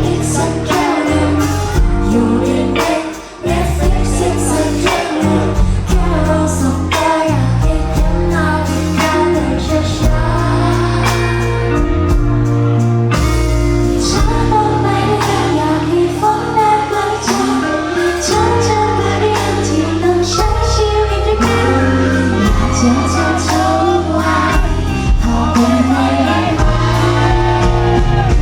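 Pop song with female singing and a steady bass line, played loud over a live sound system.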